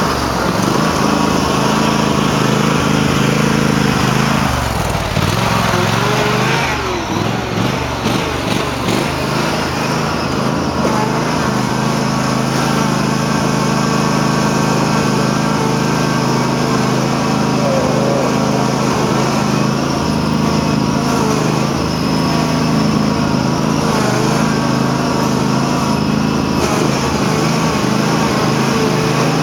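Cub Cadet garden tractor's engine running hard at high revs, dipping and wavering for a few seconds early on before holding steady; the owner says the tractor is running badly and doesn't know why.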